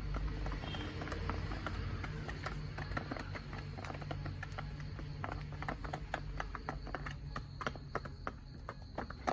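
Chickens pecking at feed: many sharp, irregular taps, several a second, over a steady low rumble.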